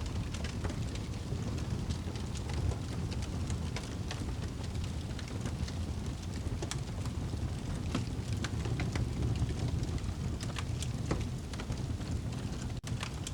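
Wood fire burning in a fireplace: a steady low rumble of the flames with scattered crackles and pops from the logs. The sound cuts out for an instant near the end.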